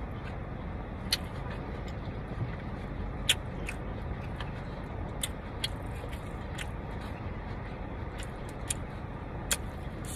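Close-miked eating sounds: chewing with a scattering of short sharp clicks over a steady low background hum.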